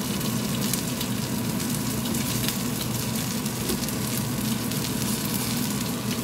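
Egg-battered cod fillets frying in hot oil in a pan: a steady sizzle with fine, irregular crackling.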